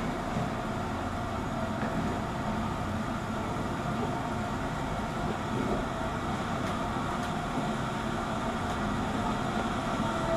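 Lift car travelling in its shaft: a steady running hum and rumble with a few constant tones.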